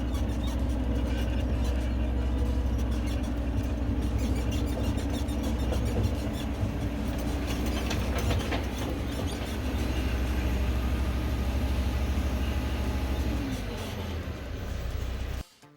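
Heavy machinery running with a steady low drone; its note drops about 13 seconds in, and it cuts off suddenly just before the end.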